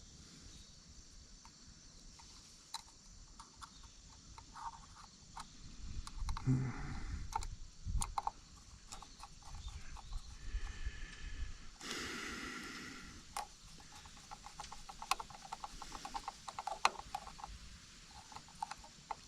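Small metal parts and a hand tool being worked on a tractor distributor while its condenser is fitted: scattered light clicks, taps and scrapes, a few heavier knocks about six to eight seconds in and a brief rustle about twelve seconds in.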